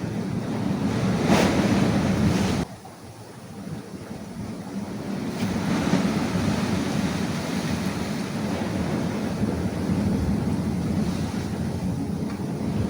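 Sea surf washing and breaking against shore rocks, with wind buffeting the microphone. The noise drops off sharply about three seconds in, then builds again in slow swells.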